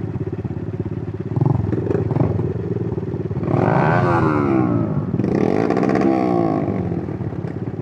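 Suzuki GN125's single-cylinder four-stroke engine running on the move. There are two louder stretches, about three and a half and five seconds in, during which the pitch falls.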